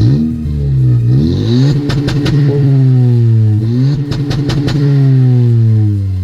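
Turbocharged 1.5-litre four-cylinder of a Honda Civic, breathing through a catless downpipe with no muffler, revved twice: the pitch climbs and falls back each time. A quick cluster of sharp pops comes as each rev peaks.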